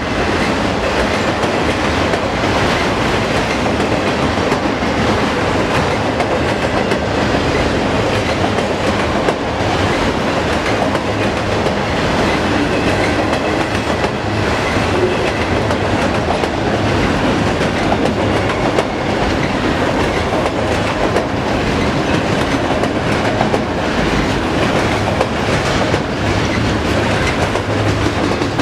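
Auto-rack freight cars rolling past at a steady speed, their wheels clicking over the rail joints in a continuous clickety-clack.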